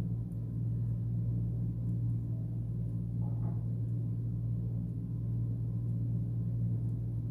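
A steady low hum throughout, with one faint brief sound about three and a half seconds in.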